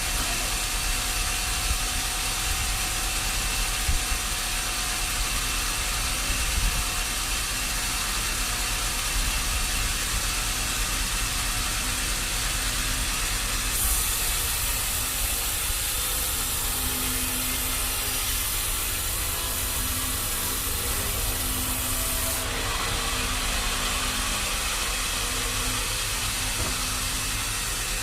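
Sawmill machinery running steadily with a low rumble; about halfway through a high hiss joins in for some eight seconds and then cuts off suddenly.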